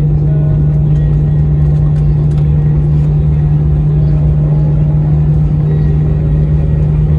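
Cabin noise inside an Airbus A319 airliner: a loud, steady low hum over a rumble from the engines and airflow, unchanging throughout.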